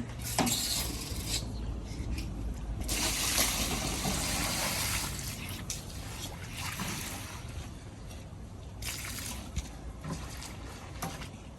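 Water splashing and trickling onto a muddy door mat being washed, in several bursts, the longest about two seconds.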